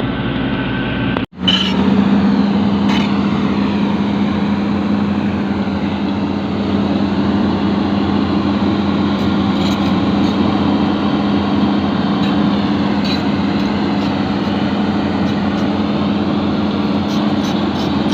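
Excavator's diesel engine running steadily with a constant hum. The sound cuts out for an instant about a second in, then carries on with a slightly different, steadier tone, with a few faint light ticks later on.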